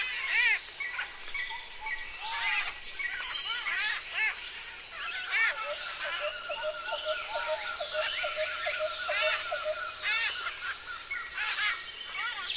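A flock of parrots chirping and chattering, many short arching calls overlapping, with one bird giving a fast repeated trill for a few seconds around the middle.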